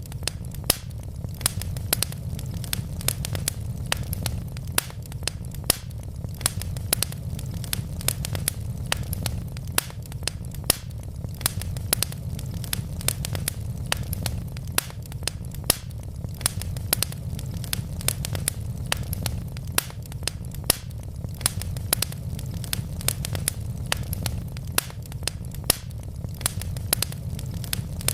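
Wood fire of burning logs crackling, with frequent irregular sharp pops and snaps over a steady low rumble.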